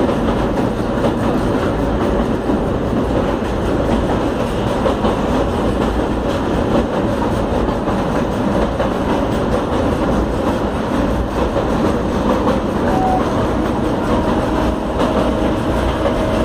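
Indian Railways passenger train running across a long river bridge, heard from inside the coach: a steady, unbroken rumble of wheels on the rails.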